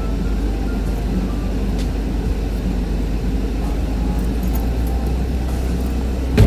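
Car on the move: a steady low road and engine rumble, with a short sharp knock near the end, after which the noise drops.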